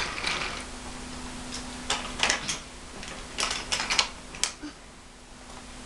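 Wooden toy trains and trucks being handled, clicking and clattering in a few quick clusters of knocks, over a faint steady hum.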